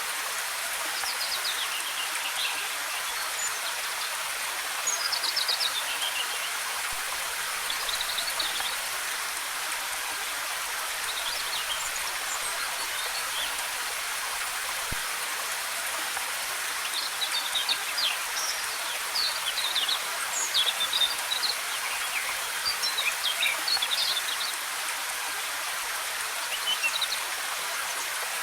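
Steady rush of a waterfall's cascading water, with small forest birds chirping and trilling on and off over it, busiest in the second half.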